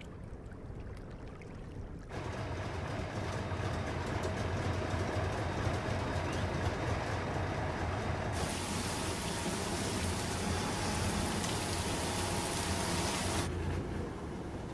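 Salt-harvesting machine running with a low steady hum and the rush of water it spits out. A louder hiss comes in about eight seconds in and cuts off suddenly about five seconds later.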